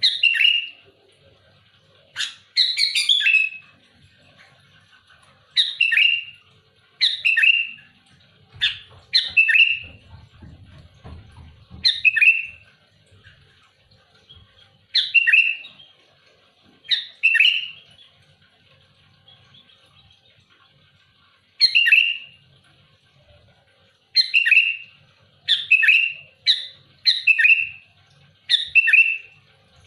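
Sooty-headed bulbul (kutilang) calling over and over in loud, short chirping phrases, one every one to three seconds and often in quick pairs, coming faster near the end.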